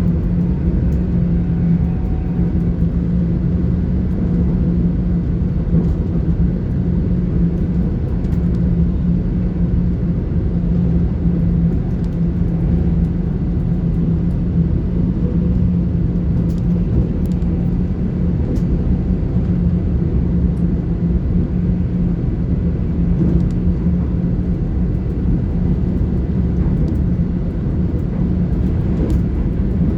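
Steady running noise heard inside a Class 800 IET train on the move: a low rumble with a steady hum over it.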